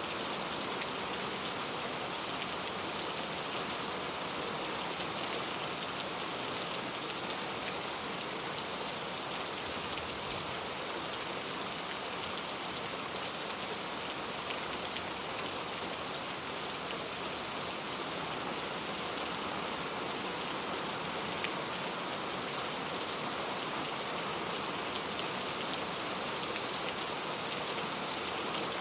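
Steady rain falling on a surface, an even hiss of many fine drops with scattered individual drop ticks.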